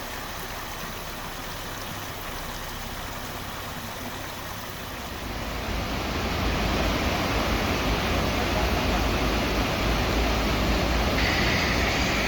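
A steady rushing noise that grows louder about five seconds in, where a deep low rumble comes in. A brief brighter hiss joins near the end.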